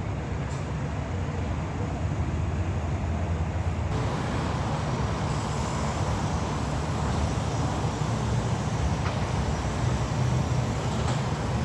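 Steady low engine rumble of heavy construction machinery running, with an even hiss over it. The sound grows a little brighter about four seconds in.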